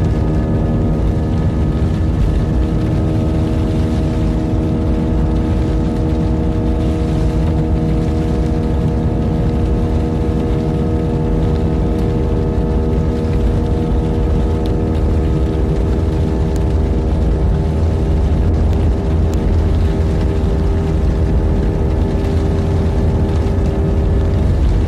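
Airliner engines running at high power during takeoff: a steady deep rumble with several steady whining tones held at one pitch.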